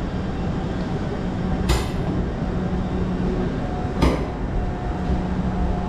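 GWR passenger train rolling slowly through a platform, a steady low rumble and engine hum, with two sharp metallic clanks, one just under two seconds in and one about four seconds in.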